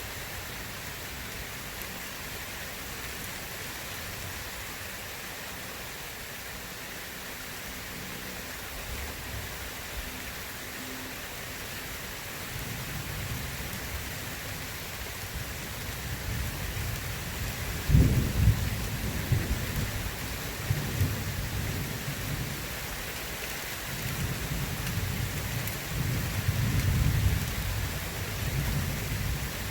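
Steady rain with thunder. A sharp crack comes about two-thirds of the way in, followed by rolling rumbles that swell again near the end.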